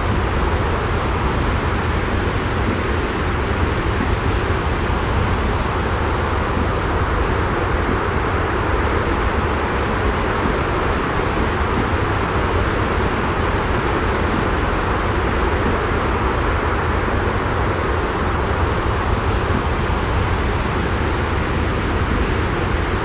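Steady, unbroken white-noise ambience with a strong low rumble and an even hiss above it, with no separate sounds in it.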